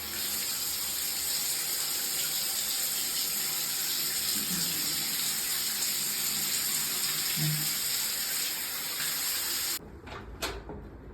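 Bathroom shower system running with every outlet on at once (overhead shower, hand shower and pressure body jets), a steady rush of spraying water. It cuts off suddenly near the end, followed by a brief click.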